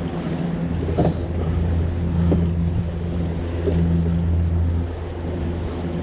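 Wind on the microphone and water rushing along the hull of a sailboat under sail, a steady low rumble. A few short knocks come through, about a second apart.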